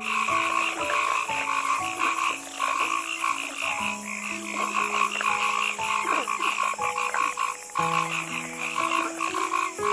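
A chorus of many frogs calling at once, a dense rapid pulsing with many overlapping calls at different pitches.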